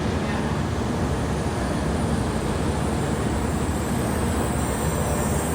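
Steady noise of a Tokaido Shinkansen train at the platform, with a continuous rumble and no distinct events.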